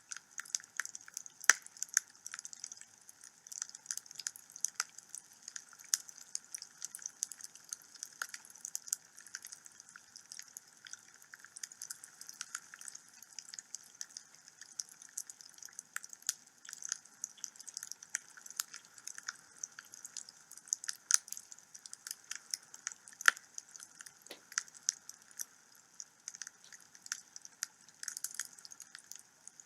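Wood fire in a home fireplace crackling, with frequent irregular sharp pops and snaps over a faint hiss.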